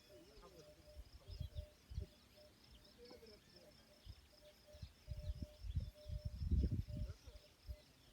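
Crickets chirping steadily in a fast, even pulse, with scattered short bird calls. Irregular low rumbling bursts are the loudest sound, mostly about five to seven seconds in.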